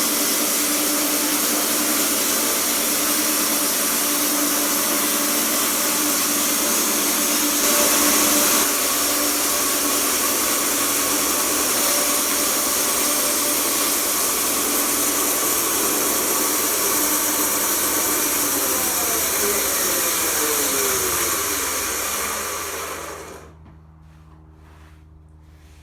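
Sawmill running steadily with a loud, even machine noise that swells briefly about eight seconds in. Near the end it is switched off: its hum slides down in pitch as it winds down, and it stops about three seconds before the end.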